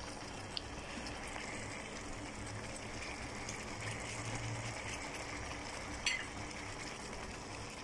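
Chicken pieces, gizzards and liver sizzling steadily in garlic sauce in a frying pan, with two short clicks, the louder one near the end.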